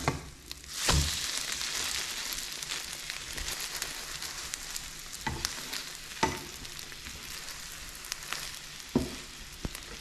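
Egg-coated bacon and cheese sandwich sizzling steadily in a frying pan, with a few sharp knocks and scrapes of a slotted spatula against the pan as the sandwich is turned.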